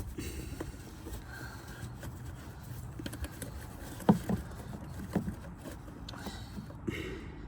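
A few short clicks and knocks of tools and parts being handled on a car engine, the loudest about four seconds in, over a low steady rumble.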